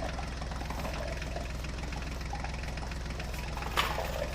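Mini toy tractor's motor running steadily as it drives along carrying a toy JCB, with a brief rattle near the end.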